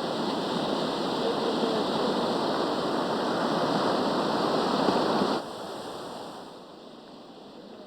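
Rushing water, a loud steady rush that drops off abruptly a little after five seconds in to a much quieter rush.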